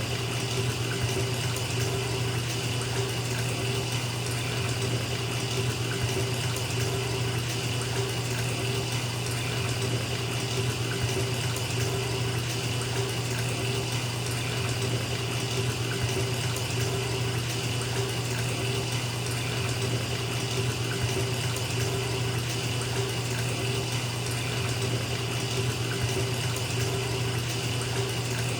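Bathtub faucet running steadily, water pouring into a filling tub.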